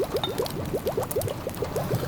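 A pot of food simmering, bubbling rapidly in a steady stream of small popping bubbles. Sharp crackles from a wood fire snap here and there over a low rumble.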